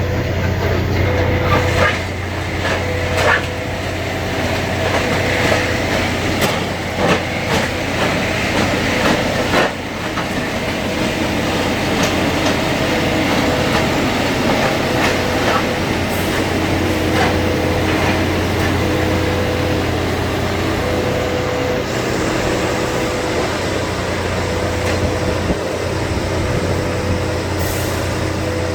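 Rail maintenance vehicle's diesel engine running steadily, with a warning beep repeating every second or two. Several sharp metallic knocks come in the first ten seconds.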